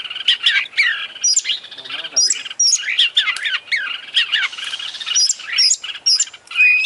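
Oriental magpie-robin (kacer) singing a fast, unbroken song of varied whistles, chirps and sweeping up-and-down notes, its phrases loaded with mimicked calls of other birds.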